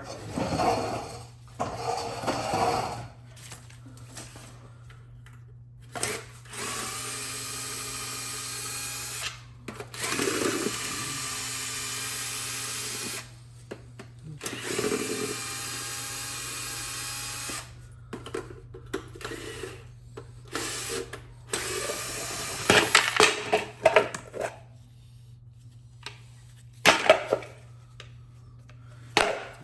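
Power drill running in several bursts of two to three seconds each, with short knocks and clinks of metal parts and tools between.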